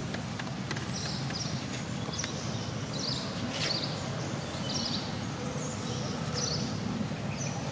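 Outdoor background ambience: a steady low rumbling noise with short, high chirps scattered through it every half second or so.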